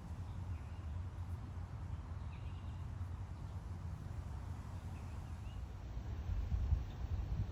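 Outdoor ambience: a steady low rumble, swelling a little near the end, with faint short bird chirps now and then.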